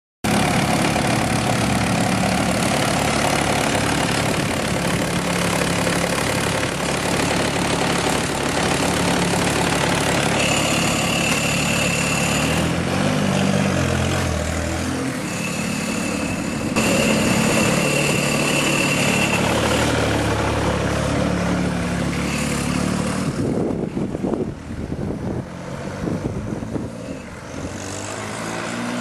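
Turbo diesel engine of a diesel-converted Kawasaki KLR motorcycle running under way, its note stepping up and down in pitch through the middle. A high steady whistle comes in twice over the engine, and the sound drops off and becomes uneven near the end.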